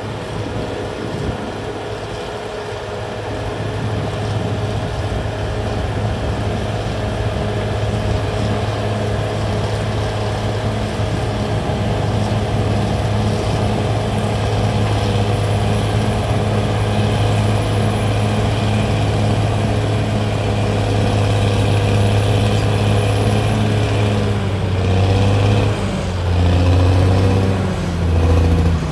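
CAT D6R XL bulldozer's diesel engine running steadily under load, slowly growing louder. Near the end the engine pitch rises and falls several times as the throttle and load change.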